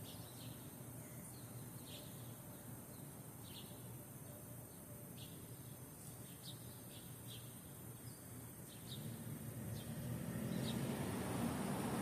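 Small birds giving short, separate chirps, scattered about one a second, over a steady low outdoor hum. About nine seconds in, a broad rushing noise swells up and grows louder toward the end.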